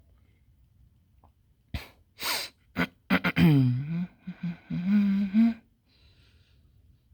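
A man sneezing: a sharp intake and noisy burst about two seconds in, then a voiced, drawn-out sound that dies away a little over five seconds in.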